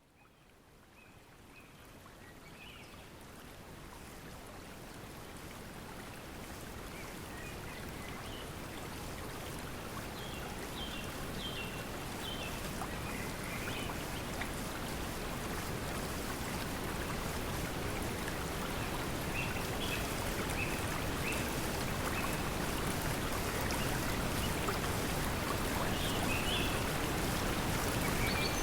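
Pink noise mixed with flowing water, fading in gradually from silence and rising steadily in level, with short bird chirps scattered through it.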